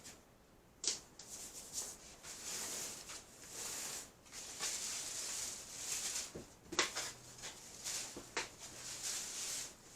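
Dry rustling and shuffling in repeated swells, broken by a few sharp clicks or taps, about a second in and twice near the end.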